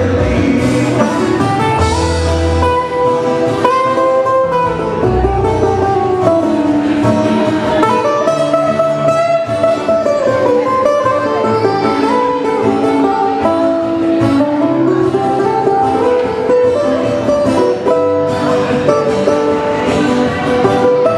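Live Hawaiian band playing an instrumental passage: guitars are strummed and plucked over a bass line, and a lead melody slides smoothly between notes.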